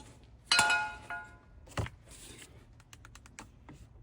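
A metal part clinks once with a short ringing, then a knock and a run of light clicks and rattles as the removed, worn-out water pump and its loose pieces are handled.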